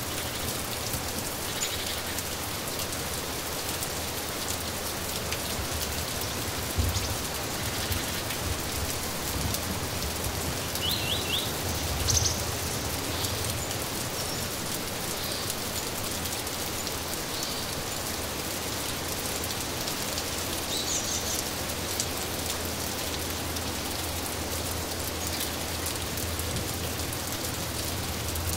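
Steady rain falling, with a few short high bird chirps: a quick run of three about 11 seconds in, and more near 12 and 21 seconds. Two brief low thumps stand out over the rain about 7 and 12 seconds in.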